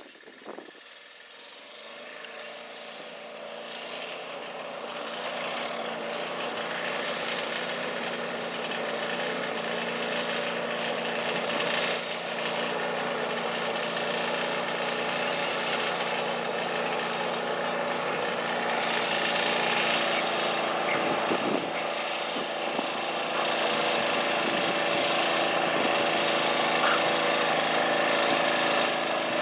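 Garden tractor engine running at steady high revs during a stoneboat pull, growing louder over the first several seconds and then holding steady.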